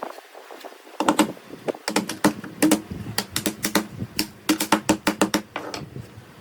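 A rapid, irregular series of sharp taps or knocks, several a second in short clusters, starting about a second in and stopping shortly before the end.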